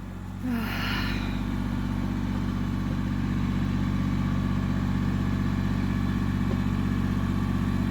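Yanmar compact tractor's diesel engine running steadily, growing louder about half a second in. A short noisy sound comes near the start.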